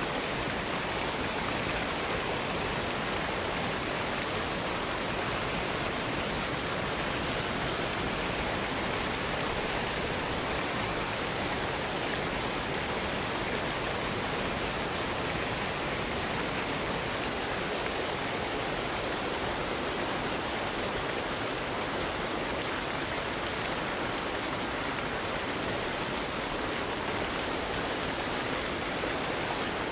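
Waterfall: a steady, even rushing of falling water that does not change.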